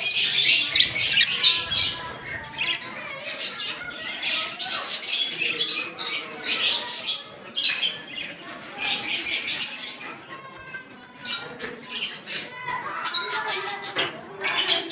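Pet birds chattering and squawking in repeated bursts of rapid, high-pitched calls, with short quieter gaps between the bursts.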